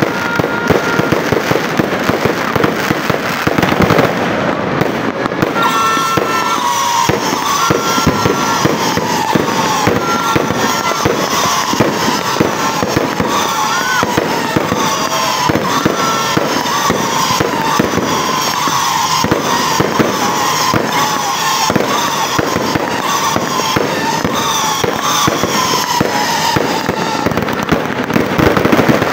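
Aerial fireworks going off in a continuous barrage of rapid bangs and crackles. From about six seconds in, many falling whistles sound over the bangs.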